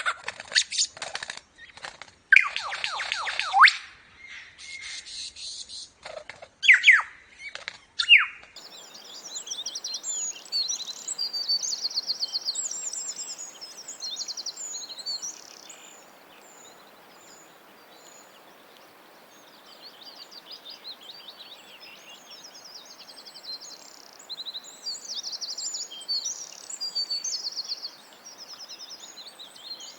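Wild birds calling and singing: loud, sweeping calls for about the first eight seconds, then after a sudden change a chorus of quick, high chirps and trills over a steady outdoor background.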